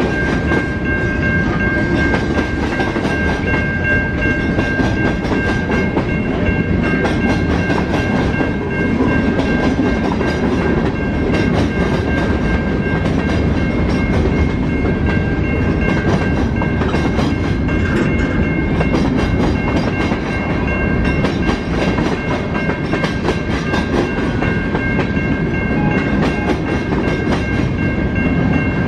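Railway cars rolling past on the track: a steady, loud rumble of wheels on rail with clickety-clack, and steady high-pitched tones held over it.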